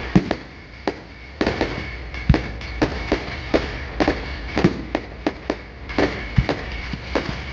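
Fireworks going off in an irregular stream of sharp bangs and crackles, several a second. A few deeper booms stand out, just after the start, a little over two seconds in and near the end, with a brief lull about a second in.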